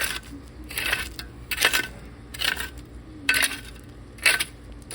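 Rocky, gravelly soil being scooped and dumped to fill in a small grave: six scraping, clinking strokes a little under a second apart.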